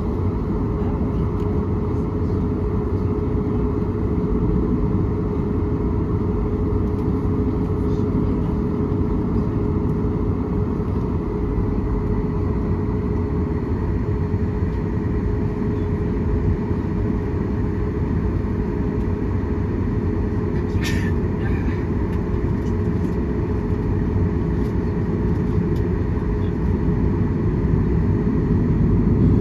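Steady rumble and hiss of a jet airliner's cabin with the engines running, over a constant hum. There is a brief click about two-thirds of the way through, and the noise starts to grow louder right at the end.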